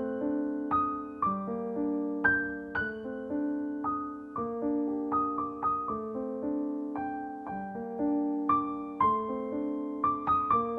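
Slow, gentle piano music: single notes and chords struck one after another and left to ring and fade.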